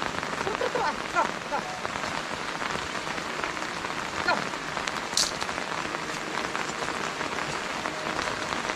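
Steady rain falling, with many separate drop hits on surfaces. There is a short sharp hiss about five seconds in.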